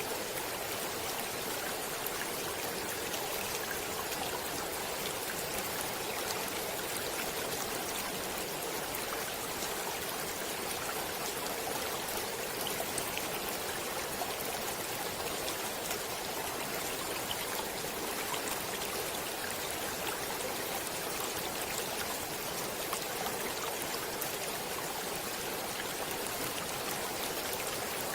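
Water of a stream flowing steadily: a continuous, even rush with fine splashing ticks.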